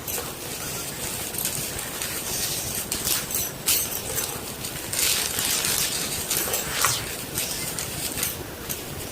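Gym chalk being crushed, a continuous crunching with sharper crackles now and then, the clearest a little under 4 seconds in, at 5 seconds and near 7 seconds.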